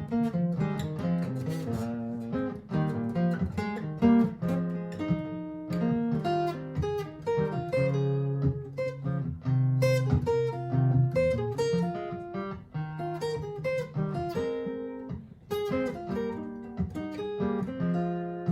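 Martin GPCPA4 acoustic guitar playing an improvised, picked melody over looped strummed chords and a bass line, all layered through a looper pedal.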